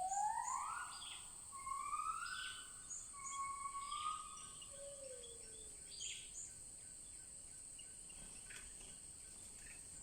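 Wild birds calling: four rising whistles about a second apart, then a single lower falling whistle, with a few short high chirps. Under them runs a steady high-pitched drone of forest insects such as crickets or cicadas.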